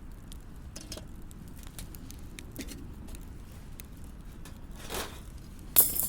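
Small scattered crackles and clicks of twigs and firewood at a campfire, over a low steady rumble, with two louder sharp snaps or knocks near the end.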